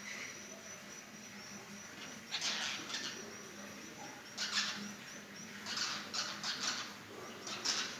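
Swiftlets roosting at night, giving bursts of harsh, rasping chatter several times over a faint, rapid, high-pitched ticking.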